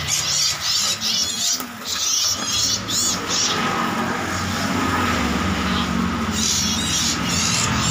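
Many caged songbirds chirping and twittering together, busiest for the first three seconds and again near the end, over a steady low hum.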